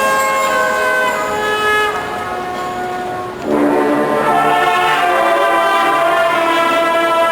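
Marching band brass playing long held chords. The sound drops back about two seconds in, then a louder, fuller brass chord comes in about three and a half seconds in.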